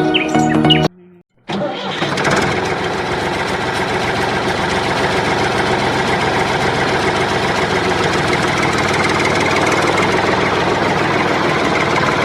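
A motor starts up about a second and a half in, after a short silence, and then runs steadily with an engine-like sound.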